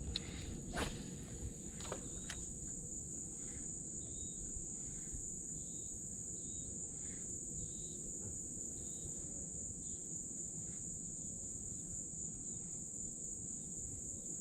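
Steady, high-pitched drone of a cicada chorus, with a few sharp clicks in the first couple of seconds.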